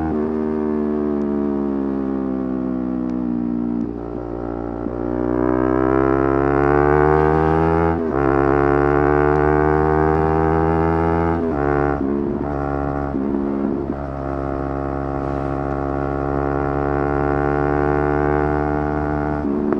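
Yamaha R3's 321 cc parallel-twin engine at high revs under riding. The engine note falls as the throttle eases, then climbs to a sudden drop at an upshift about eight seconds in, and climbs again. Between about 11 and 14 seconds the revs jump up and down several times, and after that the engine holds a nearly steady high note.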